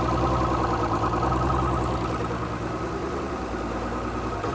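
2007 Mercury 225 Optimax V6 two-stroke outboard idling in forward gear, steady and evenly pulsing, with a rapid clattering from the lower unit: the sign of a cracked prop hub assembly. It eases slightly about two seconds in.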